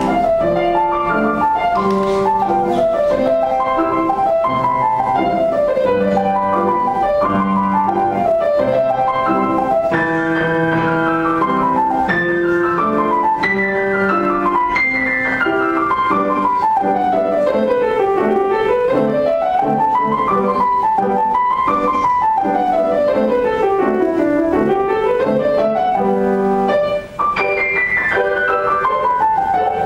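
Solo piano playing an étude: fast scale runs sweep up and down over sustained lower chords, with a very short break about 27 seconds in.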